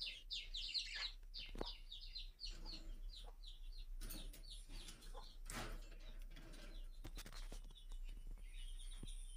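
Budgerigars chattering in a rapid run of short high chirps, with a few faint clicks among them.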